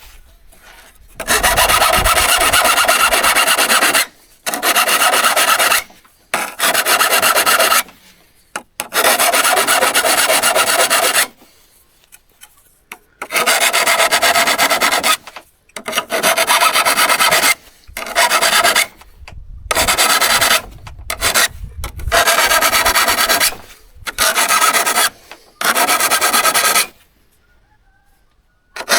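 Abrasive hand scraping on an old hand saw, in spells of one to three seconds broken by short pauses, with a longer pause near the end.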